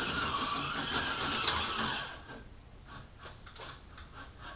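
HO slot car's small electric motor whining, its pitch rising and falling as the throttle is worked. It drops away about two seconds in, leaving a few faint clicks.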